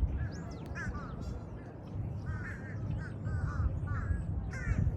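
Birds calling: a series of short, harsh, repeated calls from larger birds, with thinner chirps from small birds higher up, over a steady low rumble.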